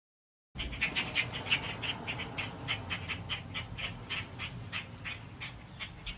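Adult blackbirds squawking in a rapid, steady series of short, sharp calls, about four to five a second: alarm calls from parents guarding their fledglings.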